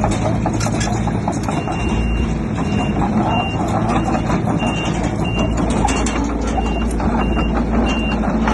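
Heavy machine's reversing alarm sounding a series of short high beeps, about two a second, starting about two seconds in, over the steady running of a diesel engine.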